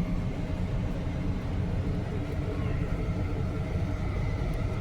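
Steady road rumble inside a moving car's cabin, from the tyres and engine.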